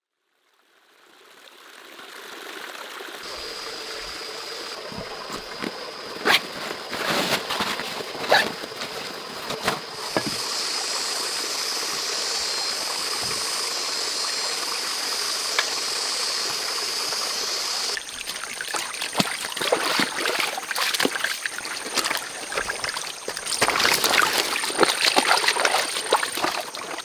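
Running water trickling steadily, with scattered sharp splashes or knocks. It fades in over the first few seconds and changes abruptly about two-thirds of the way through.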